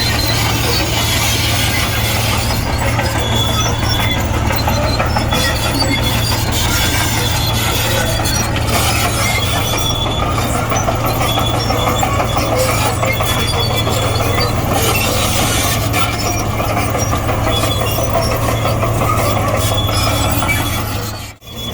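Komatsu D58E crawler bulldozer running steadily at working revs, its diesel drone overlaid with the clatter and short high squeaks of the steel tracks. The sound drops out for a moment near the end.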